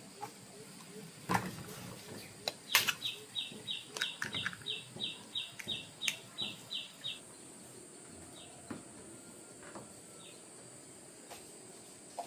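Two sharp knocks about a second apart, then a bird calling a quick run of short falling chirps, about three a second, for some four seconds, with a few single chirps after.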